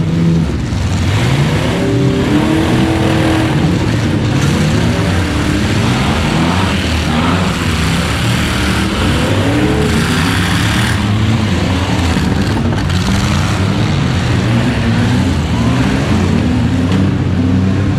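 Several demolition-derby trucks and vans revving their engines at once, their overlapping pitches rising and falling as they manoeuvre.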